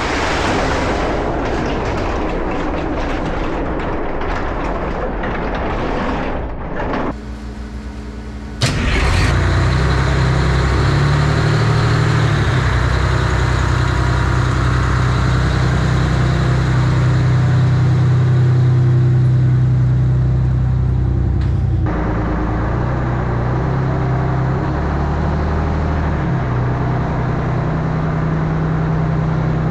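Fire engine's engine starting about nine seconds in with a sharp click, then running steadily with a deep, loud rumble. Before it starts there is a loud rushing noise, and the engine's tone steps down slightly about two-thirds of the way through.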